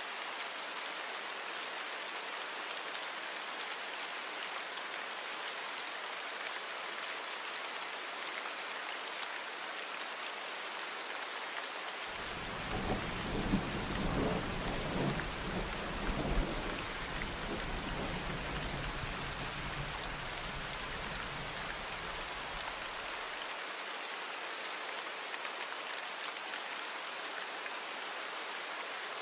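Steady rain with a roll of thunder starting abruptly about twelve seconds in. The thunder rumbles for about ten seconds, with its loudest cracks in the first few seconds.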